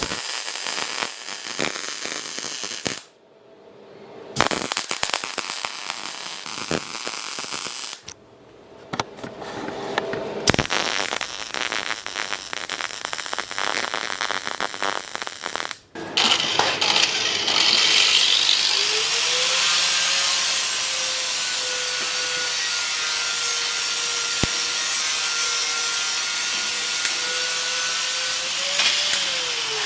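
Crackling sound in stop-start stretches for the first half, then a power tool running steadily for about 14 seconds; its motor tone rises briefly and falls away as it winds down near the end.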